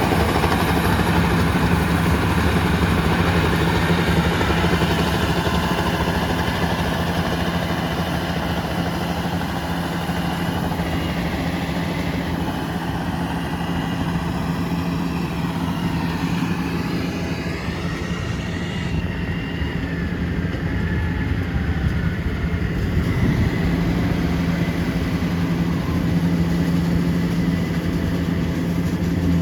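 Yanmar AW82V rice combine harvesters running steadily, a diesel engine drone with a constant low hum, with some higher tones shifting in pitch midway.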